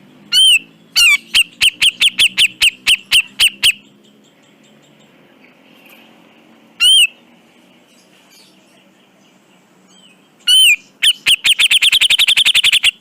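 Cucak jenggot (grey-cheeked bulbul) calling loudly in sharp, arched notes. A lone note is followed by a run of about a dozen repeated notes at roughly four a second, then another lone note midway. Near the end a lone note leads into a fast, quickening series of rapid notes.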